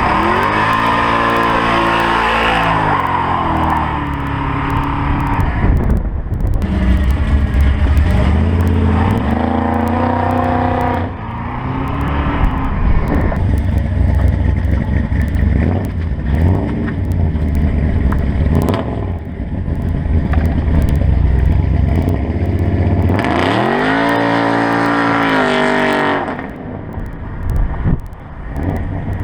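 Loud car engine being revved again and again, rising and falling in pitch over a steady deep rumble.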